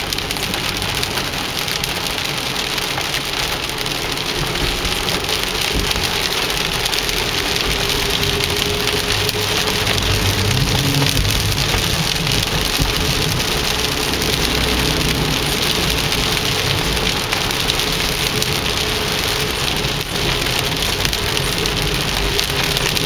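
Heavy rain with large drops pelting a car's windshield and roof, heard from inside the moving car, a dense steady hiss over the low rumble of the car driving on the wet road.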